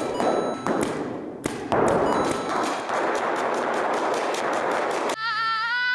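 Electronic paintball marker firing in rapid strings of shots, a fast run of sharp clicks and thuds. About five seconds in, a held, slightly wavering high-pitched tone begins.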